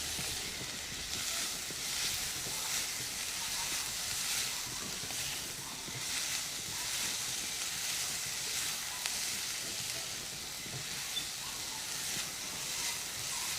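Sliced onion, green chillies, garlic and capsicum sizzling steadily in hot oil in a pan as they are stir-fried to soften, with occasional soft stirring strokes.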